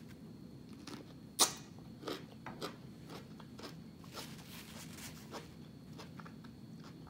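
Close-up mouth sounds of a cucumber slice being bitten and chewed: one sharp crunch about a second and a half in, then softer, irregular crunches and chews.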